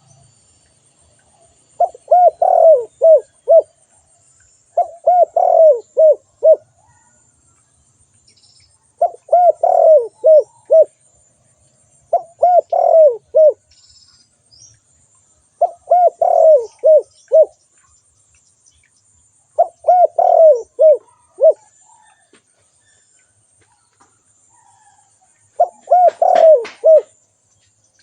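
Spotted dove calling: seven phrases of five or six short, falling coos, repeated every few seconds with gaps between. A sharp click sounds during the last phrase near the end.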